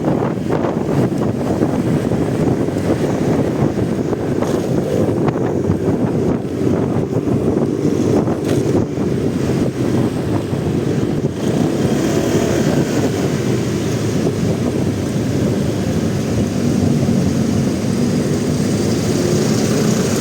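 Motorcycle running while riding through city traffic, with wind buffeting the camera microphone. About halfway through, the sound grows brighter with a steadier engine note.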